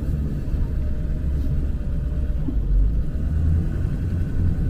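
Tow truck's engine running as the truck is driven, a steady low rumble.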